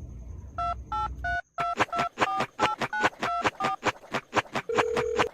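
Telephone keypad touch-tones: a quick run of short dialing beeps, each a two-note tone, followed near the end by one longer, lower tone.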